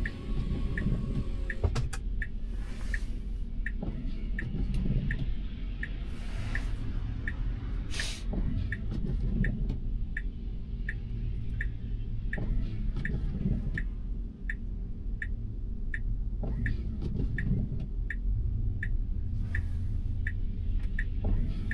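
Tesla Model Y turn signal ticking inside the cabin, a steady tick about one and a half times a second, over a low steady cabin rumble, with a few brief swishes.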